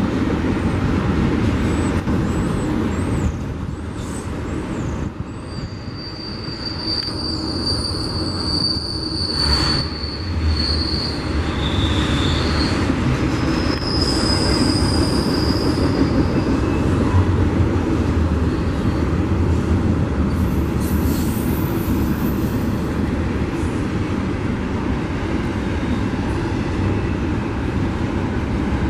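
Double-stack intermodal freight cars rolling past on jointed track, a steady rumble and clatter of wheels on rail. From about five to sixteen seconds in, thin high-pitched wheel squeals come and go.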